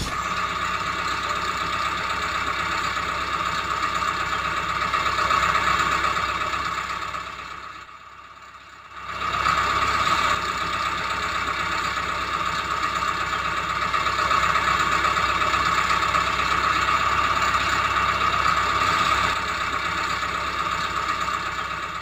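A motor running steadily, fading briefly about eight seconds in before picking up again.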